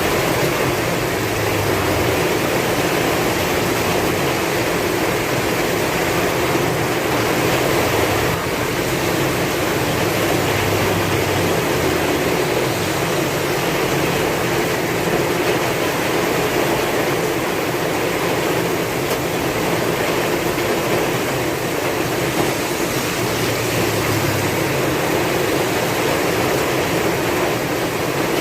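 Heavy rain pouring steadily with strong wind, an even rushing hiss, with a low rumble swelling and fading a few times.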